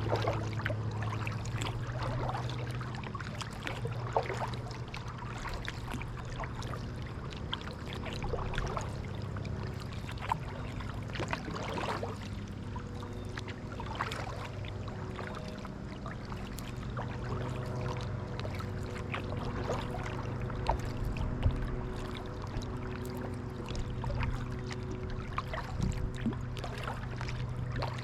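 Kayak paddle strokes: water splashing and dripping off the paddle blades at irregular moments, over a steady low hum.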